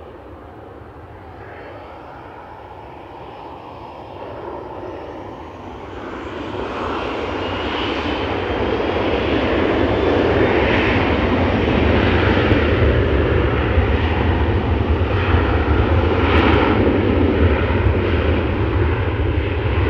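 Aircraft engines growing louder over the first several seconds as a plane approaches, then staying loud, with a faint rising whine as it builds.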